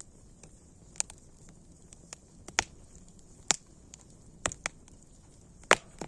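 Campfire crackling: sharp pops and snaps at irregular intervals, about seven in all, a couple of them louder, over a faint steady hiss.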